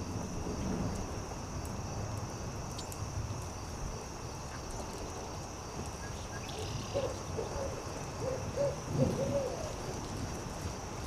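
An owl hooting, a quick run of about five short hoots in the second half, over a steady high-pitched drone, a low rumble and occasional campfire crackles.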